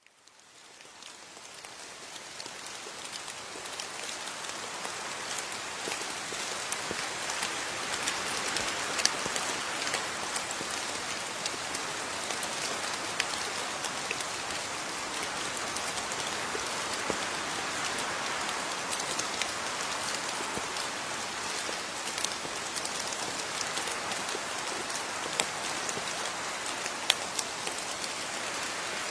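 Steady rain falling, an even hiss with many separate drops pattering and the odd louder drop tapping on a surface. It fades in over the first few seconds.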